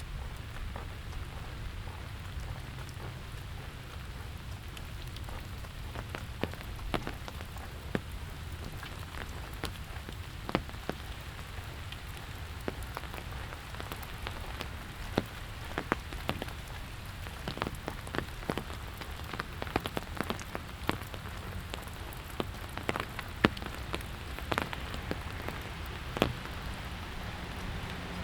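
Steady rain, with many sharp raindrops tapping close by at irregular moments, more of them from about six seconds in, over a low steady rumble.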